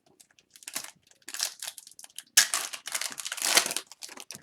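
Plastic card-pack wrapper crinkling and tearing in irregular bursts as a pack of hockey cards is opened, loudest in the middle of the stretch.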